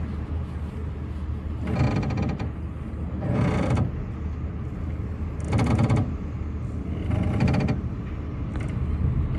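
Typhoon wind and rain, with strong gusts rising and falling about four times over a steady low hum.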